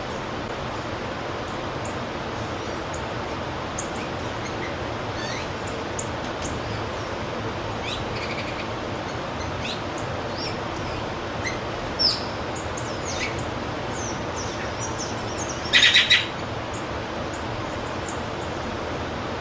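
Wild songbirds chirping and calling over a steady background hiss, with scattered short high chirps, a sharp call about twelve seconds in, and a loud rapid chattering call near the sixteen-second mark.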